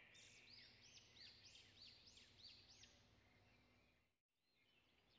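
Near silence, with a faint bird in the background giving a quick series of about seven high chirps that stops about three seconds in.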